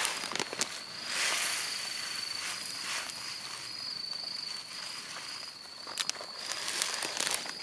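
An insect trilling steadily at a high pitch, with rustling, crunching steps and a few sharp clicks over it.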